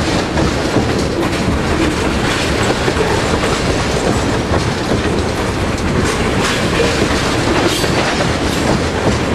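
Freight train tank cars rolling past close by: a steady, loud rumble of steel wheels on rail, with repeated clacking as the wheels cross rail joints.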